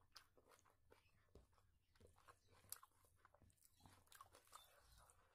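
Faint close-up eating sounds: a person chewing with wet mouth smacks while mixing rice by hand, heard as many small, irregular clicks.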